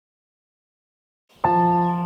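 Silence, then about a second and a half in, background music starts with a single struck, bell-like tone that rings on steadily.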